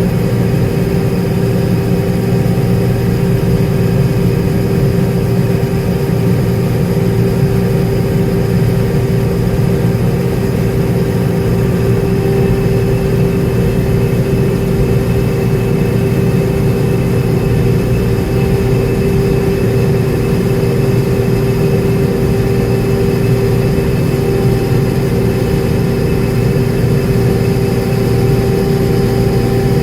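Heavy diesel engine of harvest machinery running steadily at constant speed, a loud even drone with a steady hum.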